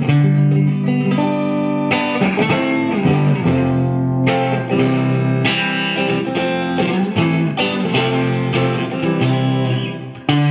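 Electric guitar played through a Marshall JVM410 valve amp fitted with new JJ tubes: a steady run of picked notes and chords.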